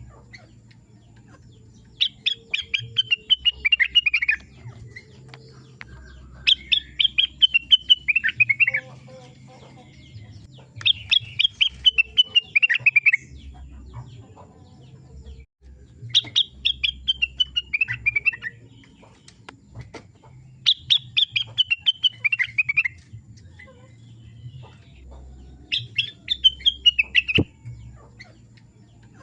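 Rengganis songbird singing a repeated phrase: a quick run of chirping notes that slides down from high to lower pitch over about two seconds. The phrase comes six times, every four to five seconds, over a faint low hum.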